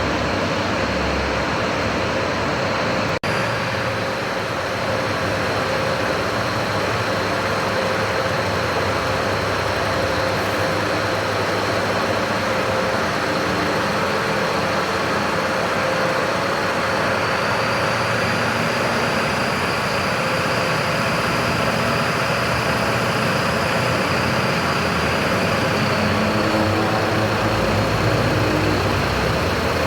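Mercedes-Benz Axor truck's diesel engine running steadily, with a momentary dropout about three seconds in.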